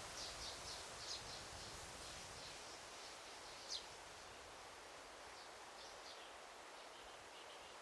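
Forest ambience: a faint, steady hiss with small birds calling over it. A quick run of high chirps comes in the first second or so, one sharp falling note comes near the middle, and more chirps follow later.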